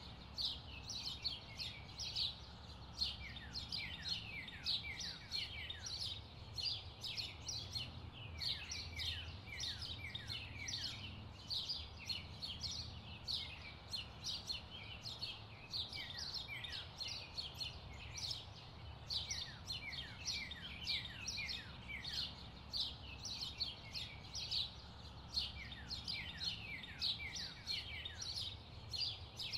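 Birds chirping continuously: a dense stream of short, quick, downward-sliding chirps, over a faint low hum.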